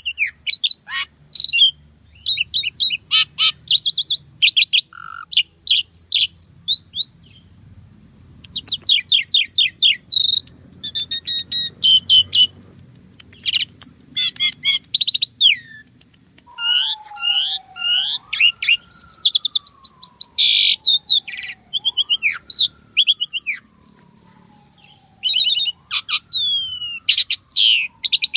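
Asian pied starling (jalak suren) singing: a busy, varied song of rapid chirps, trills and squeaky notes. In the second half, long whistles join in, each rising quickly and then sliding slowly down, about four in a row.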